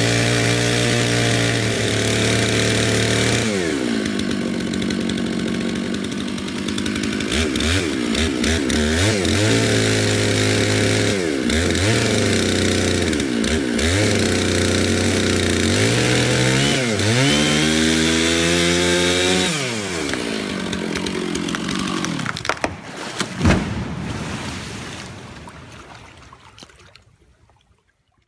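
Chainsaw cutting into a cypress log, its engine running hard; the pitch sags again and again as the chain bites into the wood and climbs back up between cuts. There is a sharp knock about 23 seconds in, and then the saw fades out near the end.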